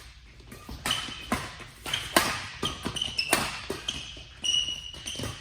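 Badminton rally: repeated sharp racket strikes on the shuttlecock, with short high squeaks of shoes on the court floor between them.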